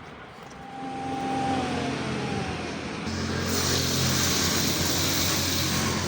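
A motor-driven machine starts up about a second in and runs with a steady hum. About three seconds in, a loud high hiss joins it.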